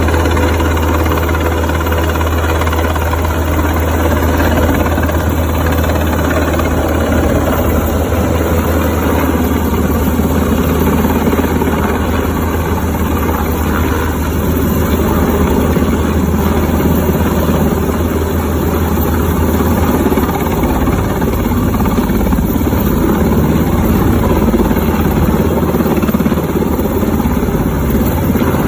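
Rescue helicopter's engine and rotor running steadily, a loud, continuous low hum with no break.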